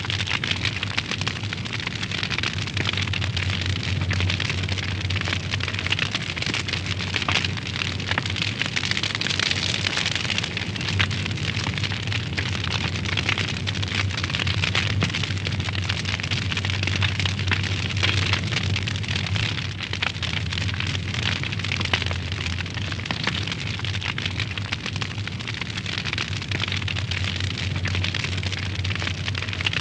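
Wood fire crackling in a fireplace: a dense, continuous run of small pops and crackles over a steady low rumble of the flames.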